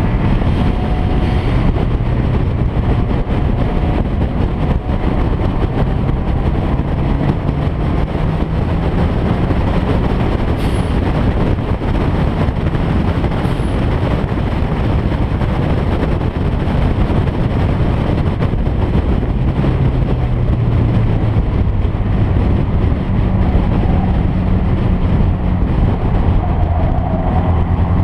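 Car engine running hard under load, its pitch climbing slowly, dropping back about two-thirds of the way through, then climbing again, over heavy road and wind noise.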